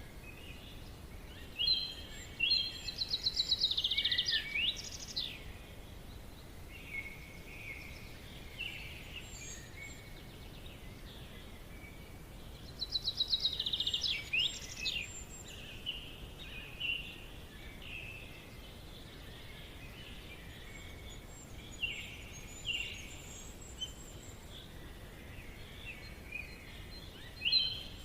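Forest birds singing: one song, a quick rattling trill ending in sweeping notes, comes twice about ten seconds apart, with shorter chirps between, over a steady faint background hiss.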